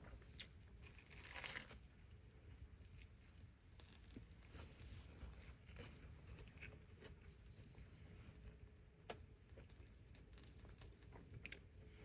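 Near silence with faint handling sounds: scattered small clicks and taps, a brief crinkling rustle about a second and a half in, and one sharper click near the end.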